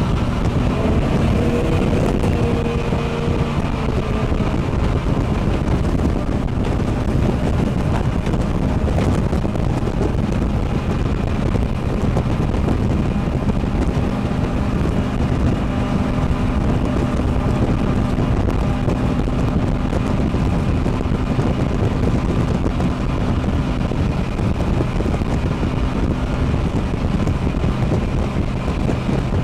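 Jet boat running steadily underway: an even engine note over a dense rush of noise, with wind buffeting the microphone.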